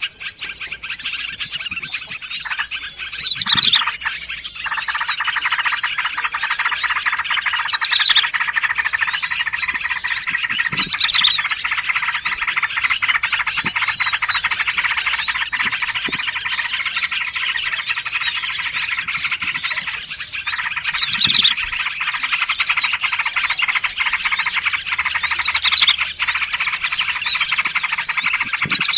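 A dense chorus of small songbirds calling over one another, with many quick overlapping chirps and whistled sweeps and a fast high trill that comes in a few times. It is a layered bird-lure recording, made to draw wild birds in.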